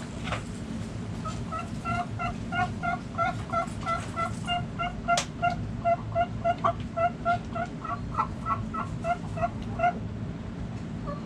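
A chicken clucking over and over in a long, fast run of short notes, about four a second, stopping near the end, over a steady low background rumble. A single sharp click sounds about halfway through.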